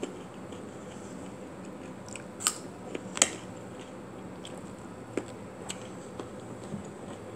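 A person chewing food close to the microphone, with a few short crunches about two and a half, three and five seconds in.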